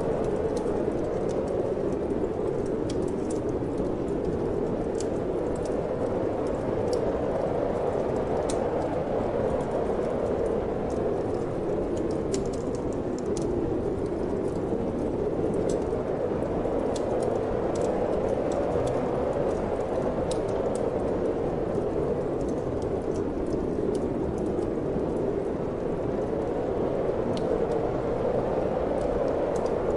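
Steady wind rushing, mixed with a wood fire crackling in a fireplace: irregular sharp pops and snaps over the constant hiss.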